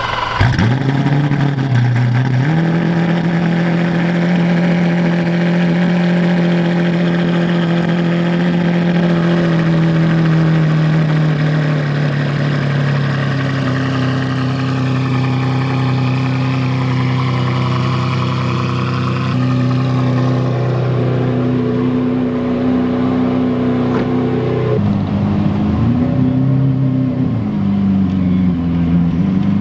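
Lamborghini Centenario's V12 engine starting and settling into a steady fast idle, which steps down lower about twelve seconds in. Near the end the throttle is blipped twice, the pitch rising and falling each time.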